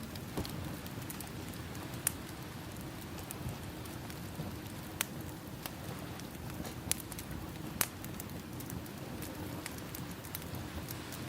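Crackling wood fire with a few sharp pops, over a steady wash of ocean waves: an added ambient soundtrack of a campfire by the sea.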